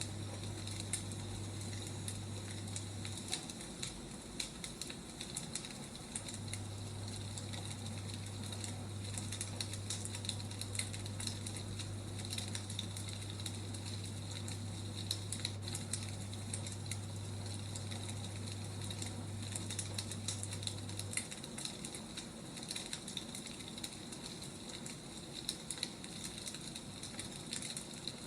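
Wood fire crackling: many irregular small pops and snaps over a soft steady hiss.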